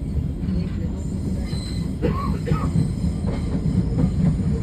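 Thameslink Class 700 Desiro City electric train running, heard from inside the carriage: a steady low rumble of wheels on rail, with brief wheel squeals about two seconds in and a few clicks over the track.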